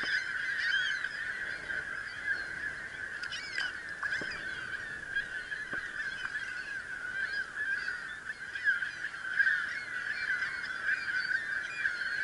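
A large colony of gulls and terns calling together: a dense, unbroken chorus of overlapping squawks, with higher, thinner calls mixed in. The birds are agitated by an approaching intruder.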